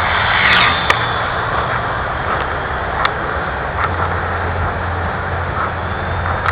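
A ParkZone P-51 Mustang RC plane in flight, its electric motor a faint whine under steady wind rush on the microphone, with a few sharp clicks.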